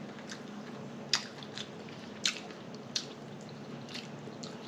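Wet, close-up chewing with lip smacking: a handful of short, sharp smacks spread irregularly, over a faint steady hum.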